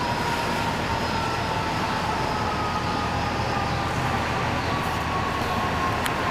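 Steady city street traffic noise, with a vehicle's whine slowly falling in pitch.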